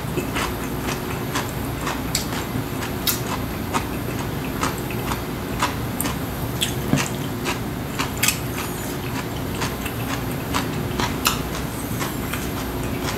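Close-up mouth sounds of a man chewing food: irregular wet smacks and clicks, several a second, over a steady low hum.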